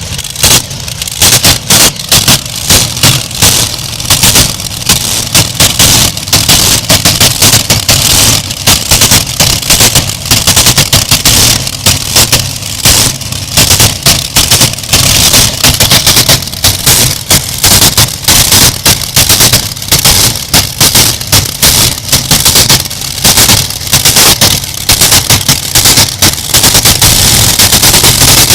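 Very loud engine of the 'Canadian Thunder' pulling tractor running under a rapid, irregular crackle of pops over a steady low drone. It becomes steadier near the end.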